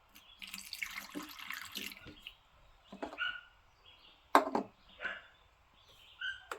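Distilled water being poured into the cells of a 6-volt lead-acid battery to top up the low electrolyte, with a sharp knock about four and a half seconds in.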